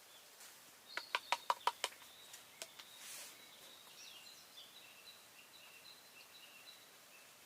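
A quick run of six sharp clicks about a second in, then one more click and a brief hiss, followed by faint, high, thin bird chirps over quiet outdoor background noise.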